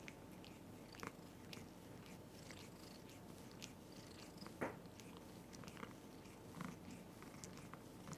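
A cat purring steadily while grooming, with faint scattered clicks of licking and nibbling and one louder click about halfway through.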